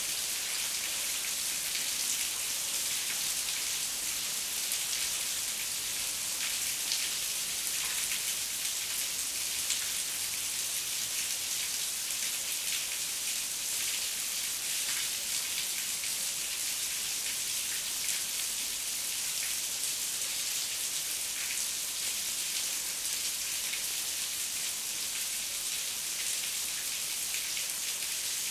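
Heavy rain falling steadily: a dense, even hiss of rain with the fine patter of countless drops.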